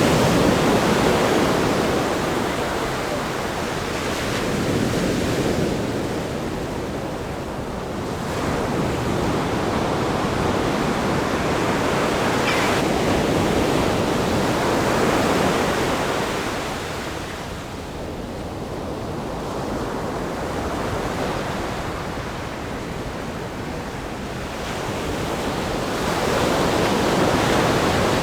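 Ocean surf breaking on a sandy beach and against a rock groin, a steady wash that swells and ebbs as each wave comes in, with a little wind on the microphone.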